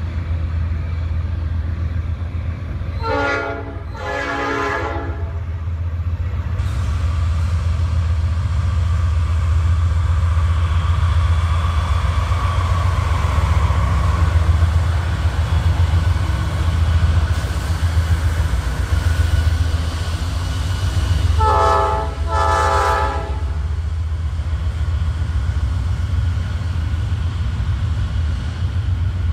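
Norfolk Southern freight train passing behind several diesel locomotives: a steady low rumble of the engines and rolling freight cars. The locomotive's multi-note horn sounds two short blasts a few seconds in, and two more about two-thirds of the way through.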